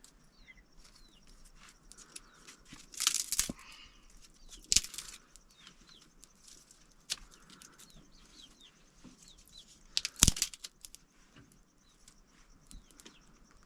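Small birds chirping in short, high, falling notes, repeated through the clip, with three brief loud noises about three, five and ten seconds in.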